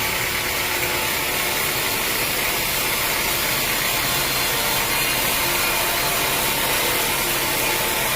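Sawmill saw cutting steadily through a large teak log, a continuous even rasping hiss.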